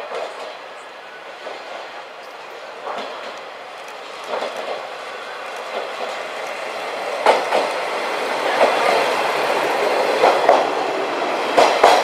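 Kiha 32 diesel railcar rolling slowly into a station, its wheels clacking over rail joints and points. The clacks come more often and the running sound grows louder as it draws close in the second half.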